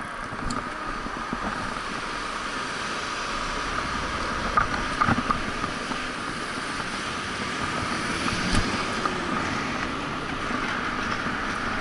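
Wind rushing over the microphone and road noise of a moving bicycle, slowly growing louder, with a few short knocks about halfway through.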